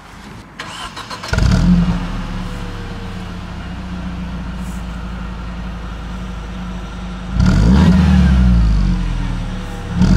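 Mercedes-Benz CLK 200 Kompressor's supercharged four-cylinder engine, breathing through an aftermarket exhaust with a silencer taken out. It starts a little over a second in, idles steadily, and is revved up and back down near the end, with a second rev beginning as the sound ends.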